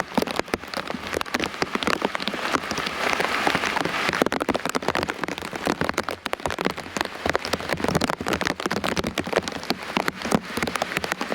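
Heavy rain falling, many separate drops striking close by as sharp taps over a steady hiss; the hiss thickens for a couple of seconds a few seconds in.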